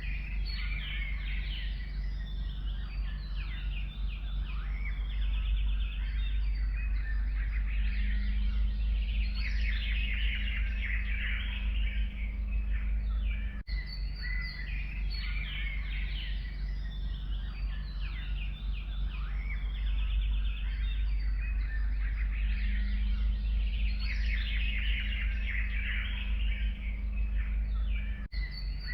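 Dense chorus of many forest songbirds chirping, trilling and singing at once over a steady low rumble. There is a brief dip about halfway through, after which the same stretch of birdsong repeats.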